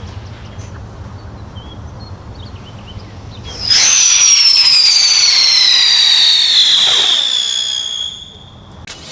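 A whistling firework screaming: one loud, high whistle that starts about a third of the way in and slowly falls in pitch for about four seconds before fading out. A sharp crack comes near the end.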